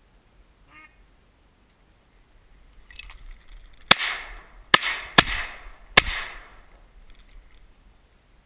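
Four shotgun shots in quick succession, fired at incoming teal, each trailing off in a short echo.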